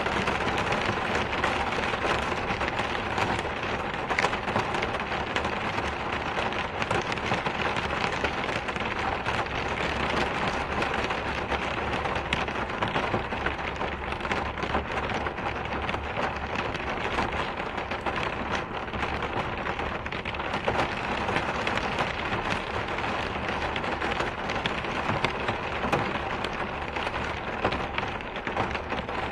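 Steady rain, a dense hiss made of countless individual drops ticking, with a steady low rumble underneath.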